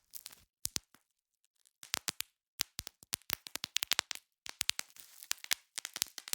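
Bubble wrap being popped: sharp, irregular pops in quick clusters, with a pause of under a second about a second in.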